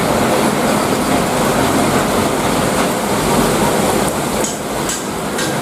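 Heavy rain pouring down in a steady, dense wash, with a few sharper drop ticks near the end.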